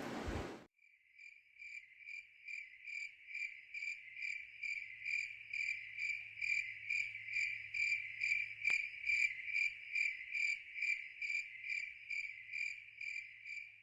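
A single cricket chirping in a steady, even rhythm of about three chirps a second, fading in over the first few seconds and fading down near the end.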